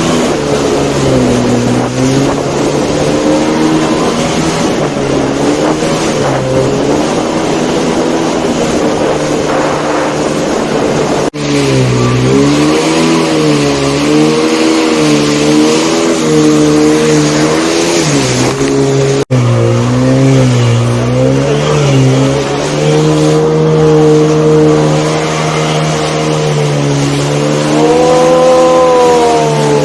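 Jet ski engine running under way, its pitch rising and falling repeatedly with the throttle and climbing in a rev near the end. The sound breaks off for an instant twice.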